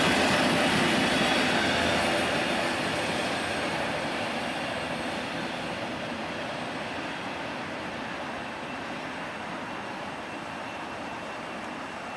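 A train running past on the rails, its rolling noise fading steadily as it moves away.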